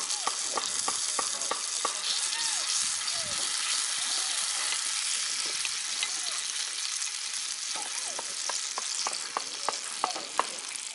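Food sizzling on a hot outdoor iron griddle, a steady frying hiss with many small clicks and taps running through it.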